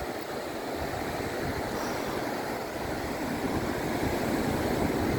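Sea waves washing onto the shore, a steady rushing surf that builds slightly louder toward the end.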